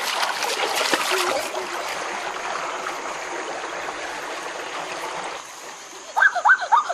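River water running and splashing: splashes in the first second or so, then a steady trickling flow that softens about five seconds in. A few short, high whining calls near the end.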